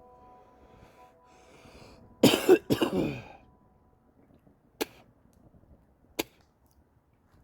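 A person coughs loudly twice in quick succession about two seconds in, followed later by two sharp clicks. Before that, a steady hum of several tones fades out.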